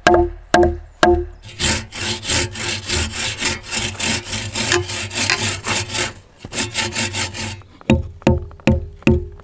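Hand saw cutting through a log in quick, regular back-and-forth strokes, starting about a second and a half in and stopping near the end. Background music with a steady plucked beat plays before and after the sawing.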